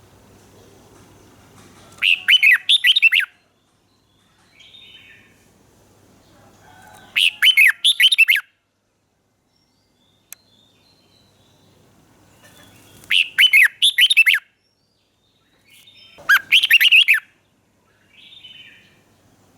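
Red-whiskered bulbul singing: four short, loud phrases of quick warbling notes, each about a second long and spaced a few seconds apart, with softer calls between them.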